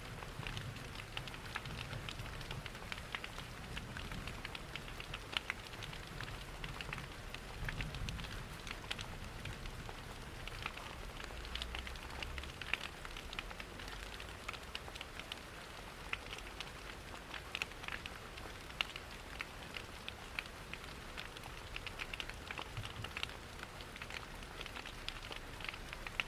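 Steady rain pattering mixed with a wood fire crackling in a fireplace, with frequent small sharp pops over an even hiss. A low rumble underneath in the first half fades out about halfway through.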